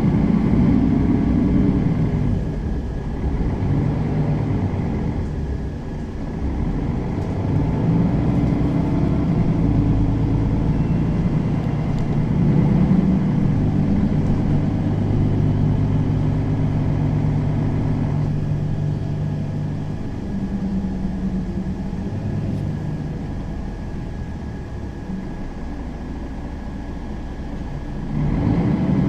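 Mercedes-Benz Citaro facelift city bus engine running under way, its pitch stepping up and down as the bus pulls and changes speed. It eases off about two-thirds through and grows louder again near the end.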